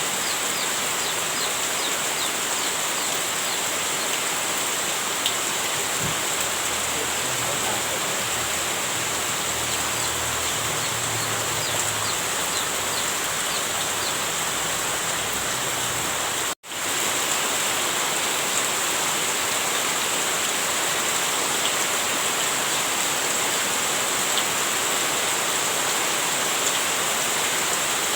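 Heavy rain falling steadily: a dense, even hiss with scattered fine drop ticks, and a faint low rumble beneath it for several seconds in the middle. The sound cuts out for an instant about 16–17 seconds in and resumes at once.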